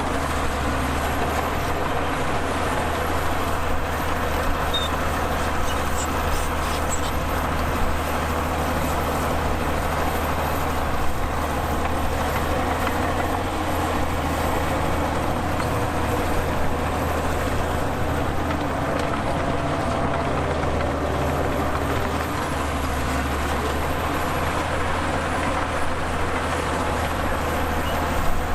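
Heavy diesel engine of earthmoving machinery running steadily with a constant low drone, with a few faint clicks and knocks over it.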